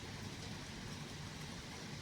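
Steady rain during a thunderstorm, an even hiss with a low rumble beneath it, recorded on an old phone's microphone.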